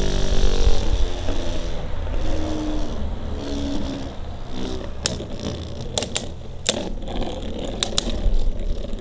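Two Beyblade spinning tops whirring in a stadium, with a faint hum that slowly drops in pitch, then a string of sharp clicks from about five seconds in as they clash. Wind rumbles on the microphone through the first few seconds.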